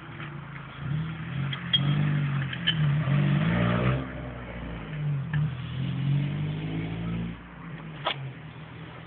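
Car engine running, its pitch rising and falling twice as it is revved, with a sharp click near the end.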